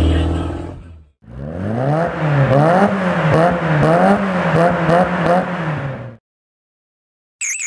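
A car engine revved hard in repeated throttle blips, its pitch climbing and falling about half a dozen times with some clatter, then cutting off suddenly. A short high whistling tone starts just at the end.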